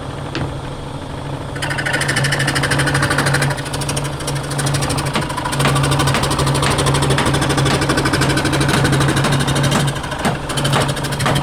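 A woodworking machine running: a steady motor hum with a fast, even clatter. It gets louder about two seconds in and dips briefly near the end.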